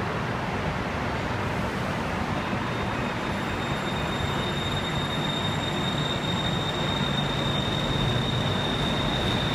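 Train running on its rails: a steady noise with a low hum, joined about two seconds in by a thin, steady high whine.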